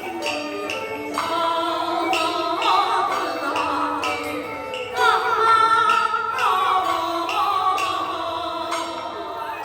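Beiguan opera music in the Fulu style: a sung line with sliding pitches over a traditional Taiwanese ensemble, with sharp percussion strokes at a regular beat.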